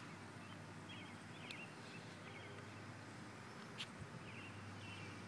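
Quiet outdoor ambience: faint songbirds chirping in short bursts of quick notes several times over a steady low hum, with two brief clicks, one about a second and a half in and a louder one near four seconds.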